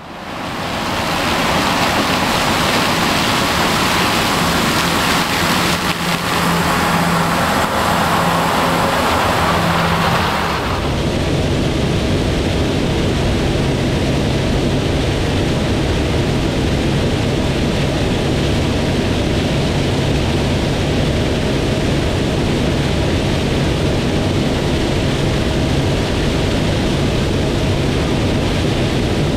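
Corn-harvest machinery, a Fendt combine and tractor, running at working load. A loud rushing machine noise fades in over the first second. About ten seconds in it switches abruptly to a steadier engine drone with a low hum.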